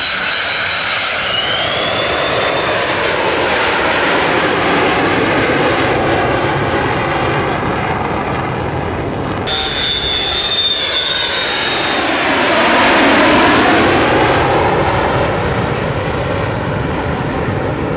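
Aircraft engines at high power during a low go-around pass. A steady roar carries a high whine, and the sound swells and sweeps as the aircraft passes, loudest about thirteen seconds in.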